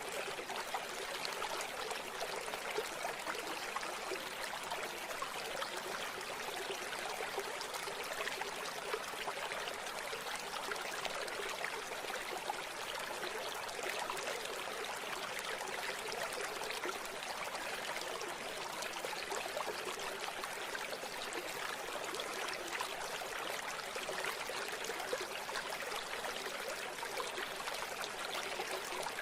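A river or stream flowing and babbling over stones, a steady rushing with small splashes and trickles.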